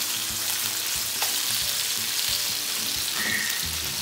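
Oil sizzling steadily around thick masala-coated giant trevally steaks shallow-frying in a nonstick pan. A metal spatula clicks and scrapes now and then as a steak, crisp on its fried side, is lifted and turned.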